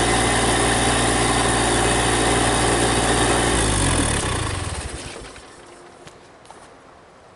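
Backhoe tractor's engine idling steadily, then shut off about three and a half seconds in, its pitch falling as it runs down and stops.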